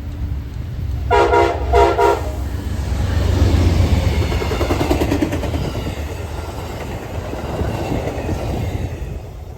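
Two short blasts of an Amtrak P42DC locomotive's horn about a second apart, a friendly toot from the engineer. Then the train passes at track speed, with wheel clatter and rumble that build and then fade.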